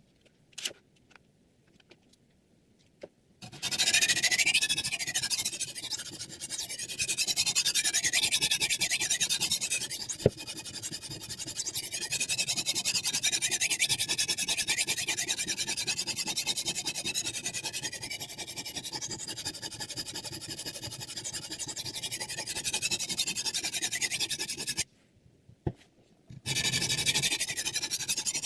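Abrasive sharpening stone on a KosiM guided knife sharpener stroked rapidly back and forth along the edge of a Xinzuo chef knife: a continuous gritty scraping. It starts after a few light clicks about three seconds in, and stops briefly near the end, with one click, before going on.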